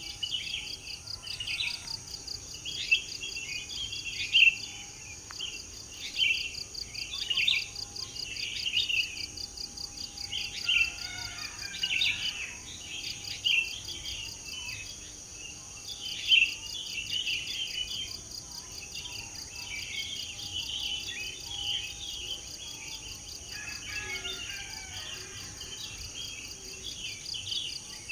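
Songbirds chirping and singing in many short, quick phrases, with a few louder calls standing out, over a steady high-pitched insect trill that pulses rapidly.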